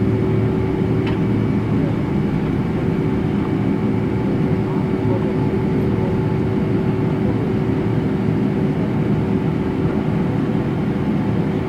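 Steady cabin noise inside a Boeing 777-200LR on the ground just after landing: a constant rumble from the engines and air systems with a steady hum.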